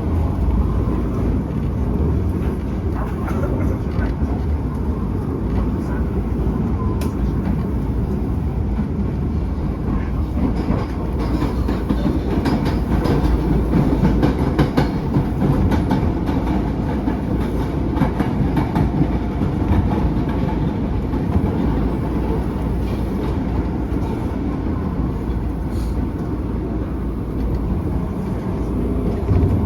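Hankyu commuter train running at speed, heard from inside the car: a steady low rumble of wheels and running gear, with scattered clicks as the wheels pass over rail joints.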